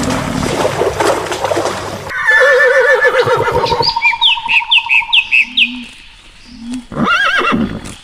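Horses whinnying: a long quavering whinny starts about two seconds in, followed by a run of short, high, falling squeals and another brief whinny near the end. The first two seconds hold a rough, noisy sound.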